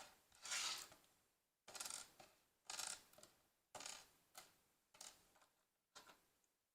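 Loose LEGO pieces clattering quietly in a run of short rattles, about one a second.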